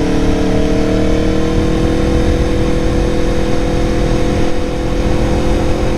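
Aprilia Tuono motorcycle engine running steadily while cruising, its note creeping slightly higher, over a low rumble of wind.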